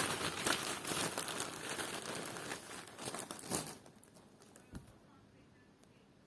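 Crinkling and rustling of handled packaging for about three and a half seconds, then it stops; a single short click follows about a second later.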